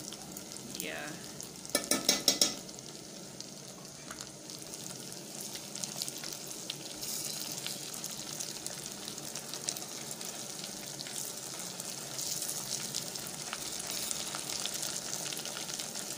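Omena (small dried fish) and sliced onions frying in oil in an aluminium pot, a steady sizzle as garlic and ginger paste is stirred in with a wooden spoon, growing a little louder from about halfway. A quick run of sharp knocks about two seconds in.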